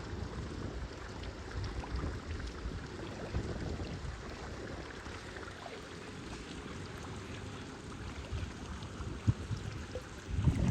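Water and wind noise from a kayak out on open water: an uneven low rush that swells and fades, with a couple of sharp knocks near the end.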